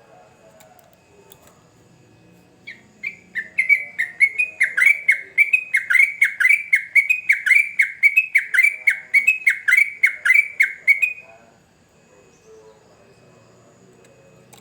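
Yellow-vented bulbul (trucukan) singing a fast run of short falling notes, about three or four a second, for some eight seconds, starting about three seconds in.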